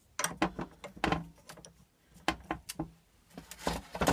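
Irregular metal clinks and knocks, about eight in all, from working a puller fitted to a seized pulley on a Briggs & Stratton engine's crankshaft.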